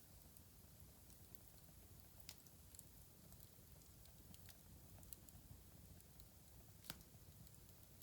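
Fireplace wood fire crackling faintly: scattered sharp pops and snaps over a low steady rumble, with a louder pop a little past two seconds and the loudest near the end.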